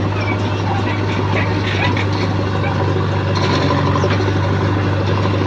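Heavy diesel engine running steadily with a constant low hum, with a few faint short high-pitched sounds over it.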